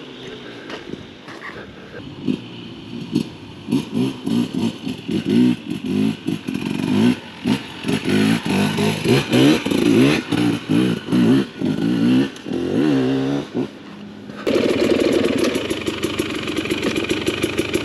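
Husqvarna TE300 TBI two-stroke dirt bike engine revving in repeated short throttle bursts that rise and fall in pitch, growing louder over the first dozen seconds. About fourteen seconds in it changes abruptly to a steady idle close by.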